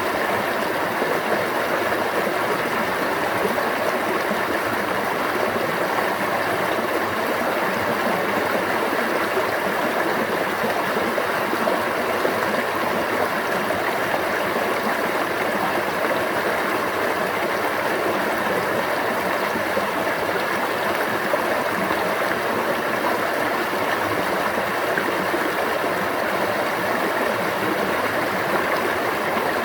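Water running in a stream, a steady, even rushing and gurgling.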